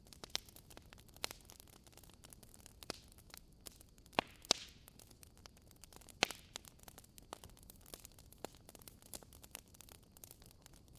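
Wood fire crackling in a fireplace: irregular small snaps and ticks over a faint hiss, with a few louder pops, two a little after four seconds in and one about six seconds in.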